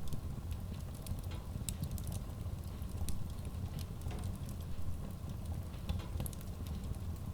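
Wood logs burning in a cast-iron stove-fireplace: irregular sharp crackles and pops over a steady low rumble of the fire.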